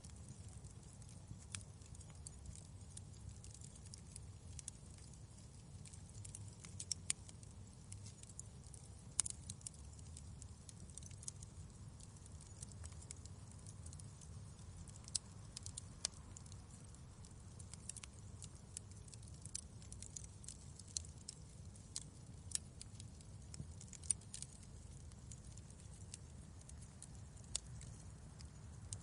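Wood fire crackling in a fireplace, with irregular sharp pops over a low steady rumble.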